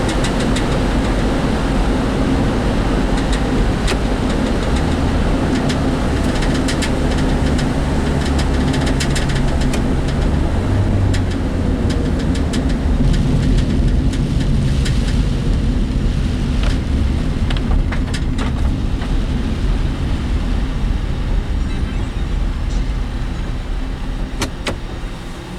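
Inside a moving work vehicle's cabin: steady low engine and road rumble, with scattered rattles and knocks from the vehicle. It gets a little quieter near the end.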